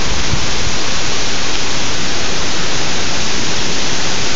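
Hurricane wind and heavy rain: a steady loud rush, with gusts buffeting the microphone in uneven low rumbles.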